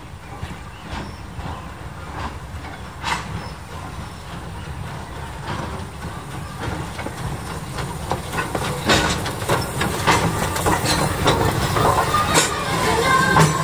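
Train made up of a Thomas the Tank Engine locomotive and open passenger cars rolling past close by, a low rumble growing louder as it nears. Over the second half its wheels click and knock over the rail joints as the cars go by.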